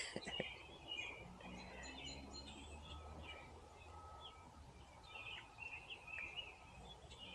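Faint, scattered chirps of songbirds calling over a low, steady outdoor background.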